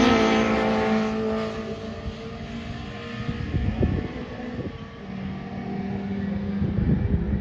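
A pre-1966 touring racing car's engine at full throttle, fading quickly as it passes and pulls away over the first couple of seconds. Later, another car's engine comes in more faintly, with wind buffeting the microphone.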